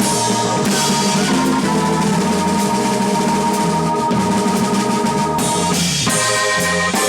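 Live jazz from an organ trio: a drum kit with cymbals playing busily over held organ chords and a bass line that steps from note to note.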